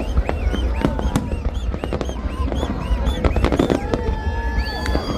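Fireworks display: many sharp bangs and crackles in quick succession over a steady low rumble.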